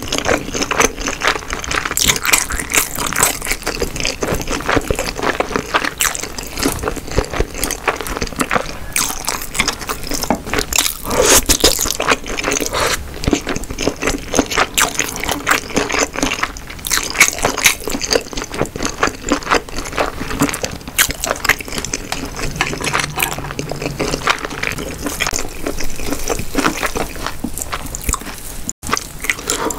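Close-miked chewing of Korean snack food: a dense run of wet mouth clicks, smacks and squishes as food is chewed with the mouth closed.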